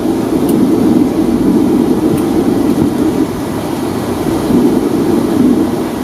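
Steady rumble inside the cabin of a Boeing 757-200, its Rolls-Royce RB211 engines running at low power before takeoff.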